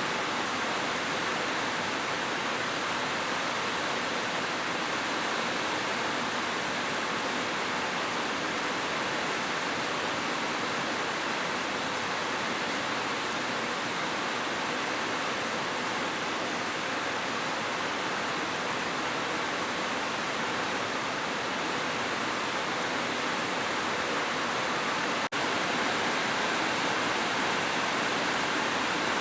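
Heavy rain falling as a steady, even hiss, with a momentary dropout about 25 seconds in.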